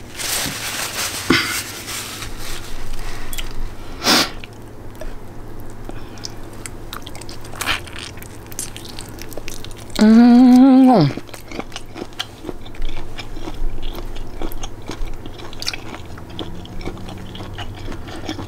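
A person chewing and biting food close to the microphone, with many small wet clicks and crunches throughout. About ten seconds in, a loud voiced sound from the eater lasts about a second and drops in pitch at the end.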